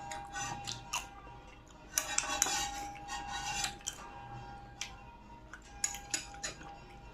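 Tableware clinking and scraping as someone eats: scattered sharp clicks, with a busier stretch of scraping about two to four seconds in.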